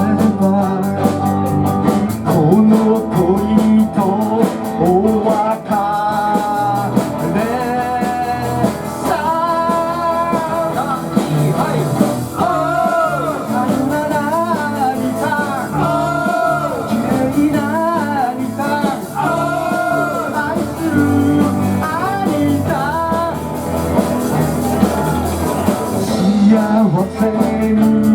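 A live electric-guitar band playing an upbeat rock-and-roll number: a lead melody line that bends and slides over rhythm guitar, bass and drums.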